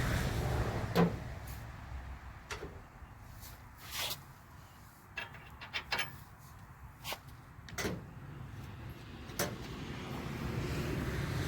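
Scattered, irregular metallic clicks and knocks of hand tools working at the castle nut on a truck's outer tie rod end, about ten in all, over a low background rumble.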